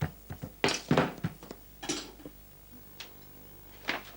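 Kitchen clatter: a quick run of knocks and clinks of bowls and utensils being handled, then two single knocks later on.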